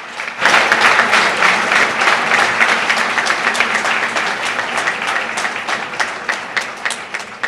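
Audience applauding, many hands clapping at once, swelling about half a second in and then slowly dying down.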